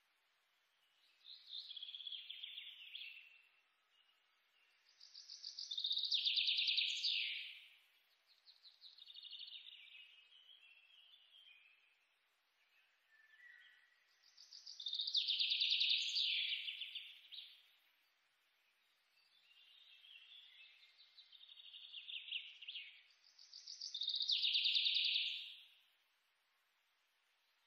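Bird song: chirping, trilled phrases that swell and fade, a softer warbling phrase followed by a louder trill, in a cycle that repeats about every nine seconds.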